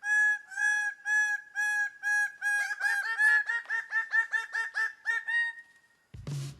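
Bird-like call notes repeated evenly, about two a second, quickening to about four a second partway through, then stopping near the end.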